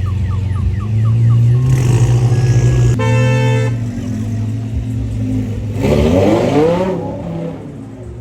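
Car engines idling with a steady low hum. A car horn honks once, just under a second long, about three seconds in, and an engine revs up around six seconds in. A repeating electronic chirping stops in the first two seconds.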